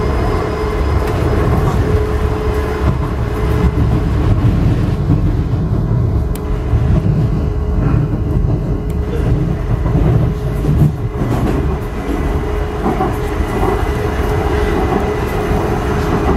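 Docklands Light Railway train running between stations, heard from inside the carriage: a steady low rumble of wheels on track with a constant whine held at one pitch.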